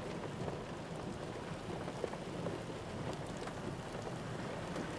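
Steady rain falling, with many small drop ticks on a nearby surface.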